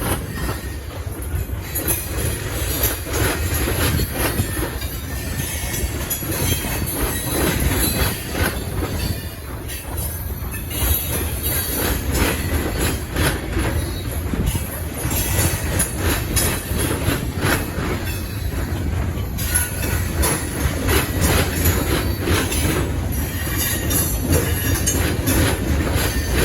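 Freight cars of a Canadian Pacific local train rolling past, steel wheels squealing and clacking over the rail joints.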